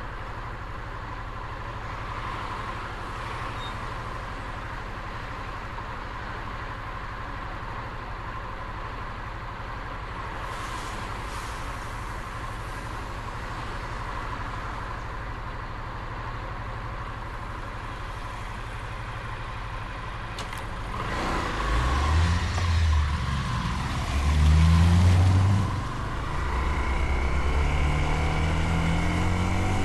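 Motorcycle engine running low and steady, then revving up about two-thirds of the way in, its pitch rising twice with a gear change between, before settling into a louder, steady higher pitch near the end.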